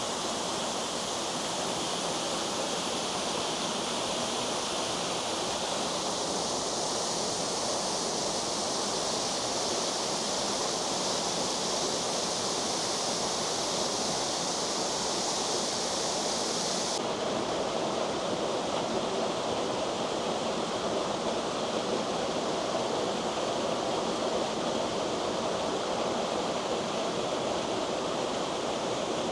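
Steady rush of a waterfall's falling water. About 17 seconds in, the highest part of the hiss drops away abruptly.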